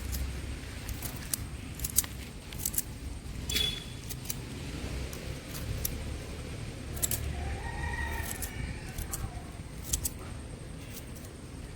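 Scissors snipping Callisia repens (turtle vine) stems during pruning: irregular sharp snips over a low rumble.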